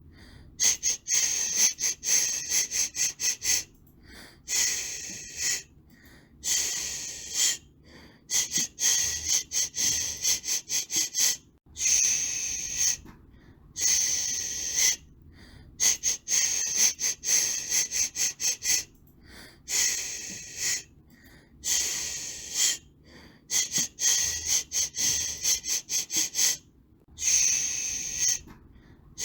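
Hissing white noise for soothing a baby, coming in uneven bursts of about half a second to a second and a half with short gaps between. Some bursts are broken into rapid fluttering pulses.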